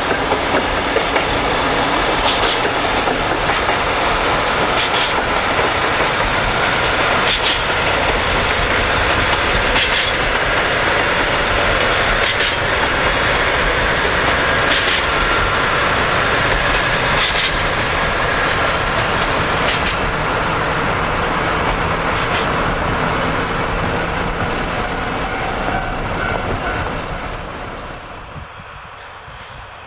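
Freight train wagons rolling past, the wheels clacking over rail joints in an even rhythm about every two and a half seconds over a steady rumble. The sound fades away near the end as the train passes.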